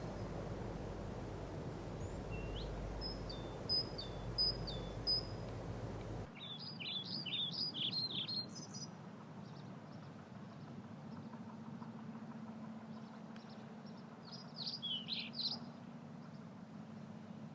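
Small birds chirping in three short bouts of quick, high calls over a faint steady outdoor background. The background drops abruptly about six seconds in.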